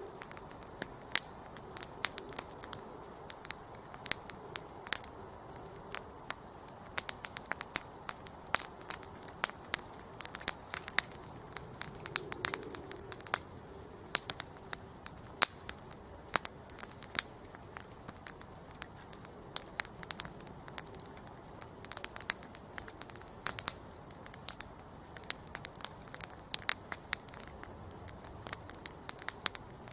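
Wood campfire burning: many sharp crackles and pops coming at irregular intervals over a soft steady hiss of flame.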